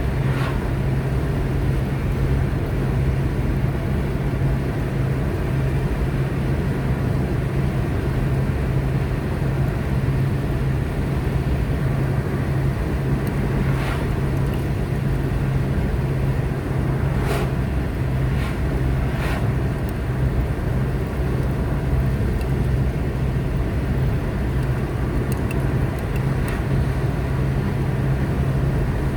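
Car driving at steady speed: a constant engine hum and tyre and road rumble, with a few brief clicks or knocks around the middle.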